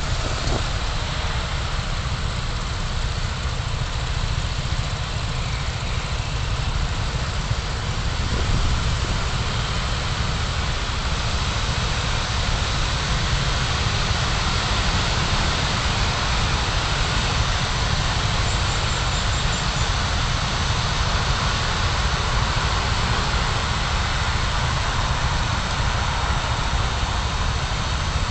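Car on the move heard through a dashcam: steady low engine and road rumble with a continuous hiss of tyre and wind noise.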